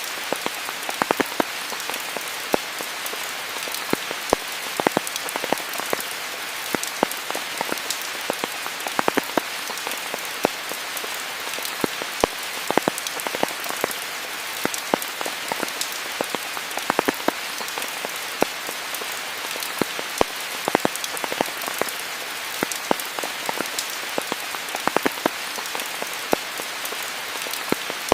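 Steady rainfall, a constant hiss with many close, sharp drips and drop impacts scattered irregularly throughout.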